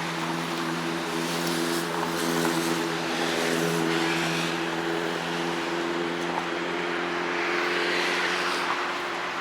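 Vehicle engine running at a steady, unchanging pitch, with a hiss of wind or road noise over it.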